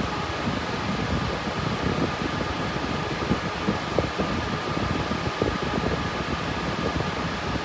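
Cooling fans of an RTX 3060 Ti Ethereum mining rig running steadily under load: an even rushing noise with a constant whine from the fan blades. Underneath it runs an uneven, fluttering low rumble.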